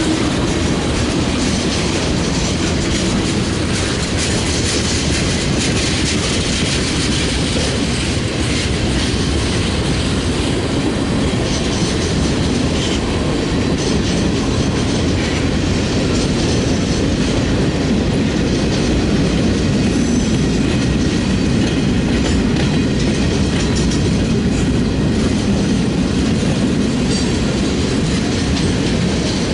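Freight train cars rolling past, a steady, loud clatter of steel wheels on the rails.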